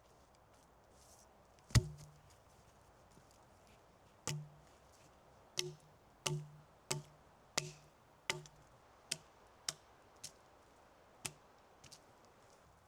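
A tool striking wood in a run of about a dozen sharp knocks: one loud blow, a pause, then repeated strikes at roughly one or two a second that space out and weaken toward the end.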